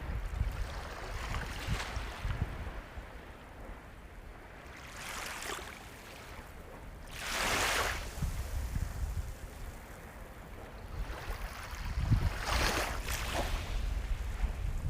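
Sea waves breaking and washing up a shore, with a steady low rumble and a rising, fading wash of surf about halfway through and again near the end.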